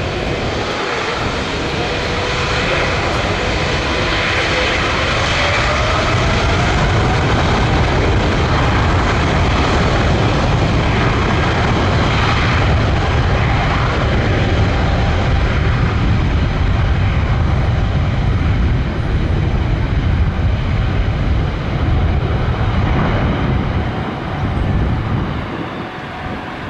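Jet airliner passing low overhead, its engines giving a loud, steady roar with a faint rising whine in the first few seconds, easing slightly near the end.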